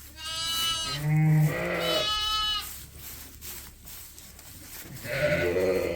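Sheep bleating: four calls, three high-pitched and one lower, deeper call in the middle, with a gap of a couple of seconds before the last.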